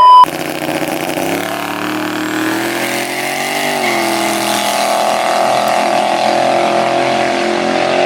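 A short, loud beep at the very start. Then a car engine running hard at high revs over a hiss, its pitch dipping briefly about four seconds in before holding steady.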